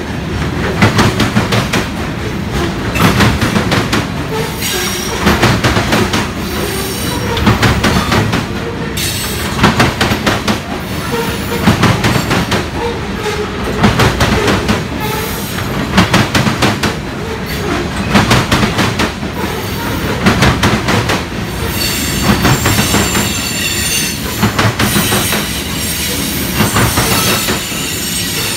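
Freight train of covered hopper cars rolling past close by: steel wheels clack over the rail joints, a loud clack-clack roughly every two seconds as each car's wheel sets pass. A thin, high wheel squeal joins in near the end.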